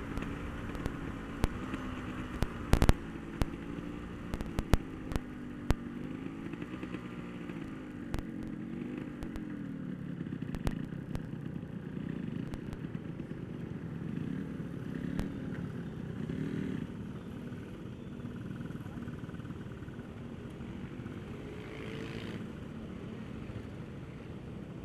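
Yamaha RX-King's 135 cc two-stroke single running at low revs through an aftermarket exhaust, its pitch wandering slowly up and down. Sharp clicks and knocks come through, most of them in the first six seconds, the loudest about three seconds in.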